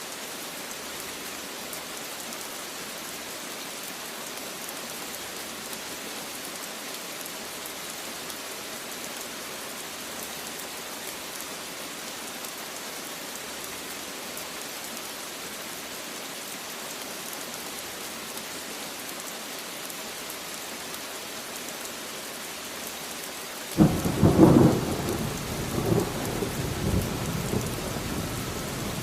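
Steady rain falling as an even hiss. Near the end a sudden loud clap of thunder breaks in and goes on rumbling in uneven surges.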